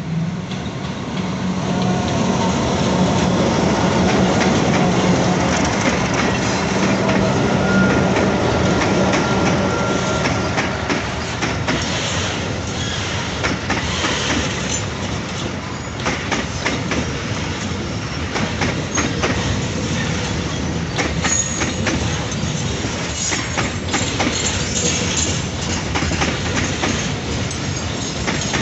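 Diesel freight train passing close by, with the locomotives' engines humming in the first several seconds. After that the wagons' wheels clatter steadily over the rail joints, with brief wheel squeals.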